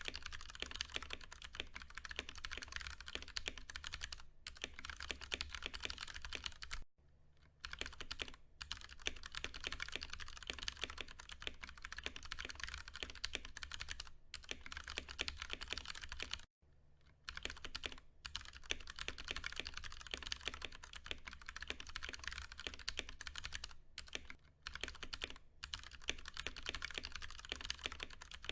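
Fast continuous typing on a Ducky One 2 Mini mechanical keyboard with Cherry MX Brown tactile switches: a dense clatter of key presses, broken by a few brief pauses.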